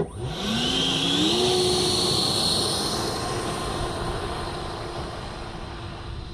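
RC Viper Jet model running up to power: after a sharp click, a loud rushing whine rises in pitch over the first second or so, then holds steady. It slowly fades toward the end.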